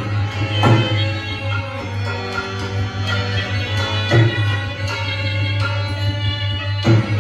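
Rajasthani folk music with a hand drum: sustained melodic tones over a steady low drone, with three heavy drum strokes spaced a few seconds apart.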